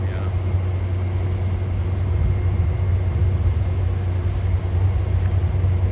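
Train running: a steady low hum and rumble. A short high chirp repeats about two or three times a second over it, stopping around four seconds in.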